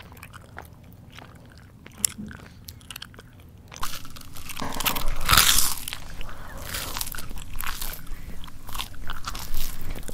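Close-up chewing: sparse wet mouth clicks, then from about four seconds in loud, dense crunching of crunchy food, with irregular crunches continuing.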